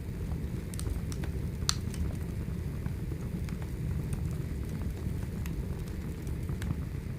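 Burning firewood: a steady low rumble of the fire with scattered small crackles and one sharper pop just under two seconds in.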